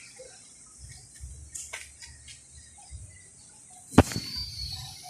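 Typhoon rain hissing steadily, with gusts of wind buffeting the microphone in low rumbles. A sharp knock about four seconds in is the loudest sound, with a few lighter clicks near the end.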